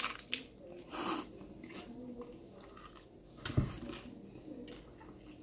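Biting into and chewing a crisp corn taco shell, with a few sharper bites standing out over quieter chewing. The loudest comes about three and a half seconds in.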